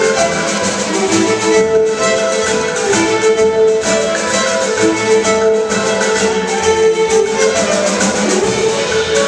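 Celtic fiddle tune played on violin, with chamber orchestra strings accompanying and a steady beat in the low end.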